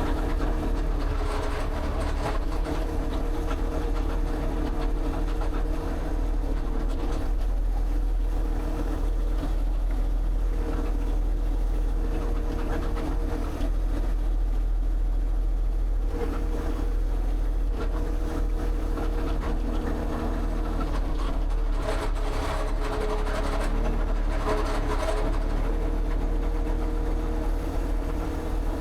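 An engine running steadily, with a low rumble and a constant hum.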